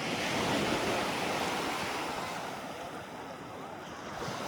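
Small sea waves washing in over the shore, a rush of water that swells about half a second in, fades over the next couple of seconds and starts to build again near the end.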